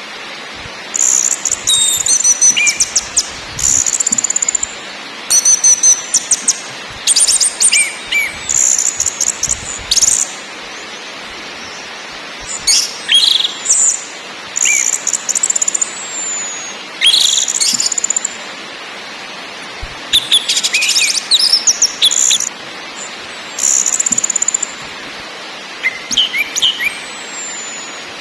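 Orange-headed thrush (anis merah) song: repeated short, loud phrases of high rattling trills and whistled notes, with brief pauses between them, over a steady background hiss.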